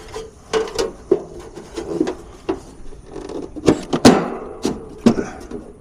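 Sheet-metal access doors of an HVAC unit being fitted back on: a series of knocks and clatters, the loudest about four seconds in with a brief ring.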